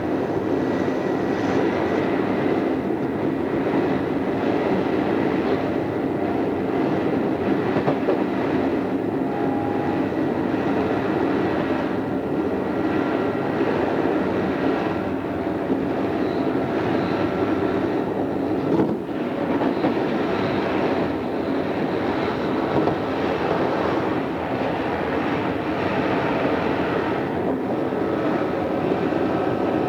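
Odakyu 2600 series electric train running steadily at speed: a constant rumble of wheels on rail and running gear, with no marked change in speed.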